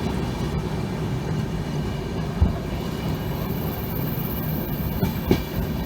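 Moving passenger train running with a steady low rumble, and two sharp knocks about three seconds apart.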